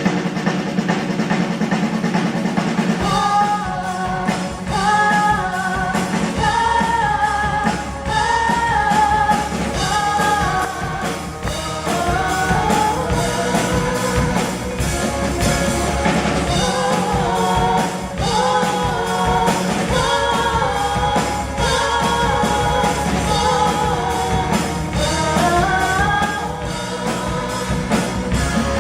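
Pop-rock song: a sung melody line over drums and bass. The melody enters about three seconds in, and the full beat with bass joins a few seconds later.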